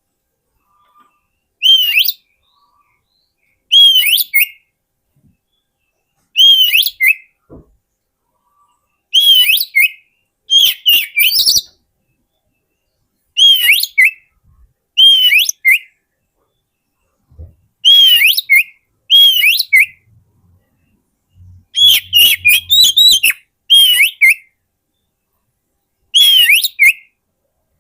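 Oriental magpie-robin (kacer) singing: short phrases of bright whistled notes that swoop up and down, repeated about a dozen times with brief pauses between. It is a recording played as a lure to attract wild magpie-robins.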